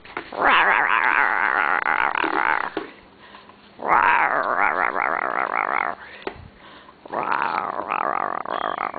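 African grey parrot giving three long warbling calls, each about two seconds, with a pitch that wobbles quickly up and down and short pauses between them.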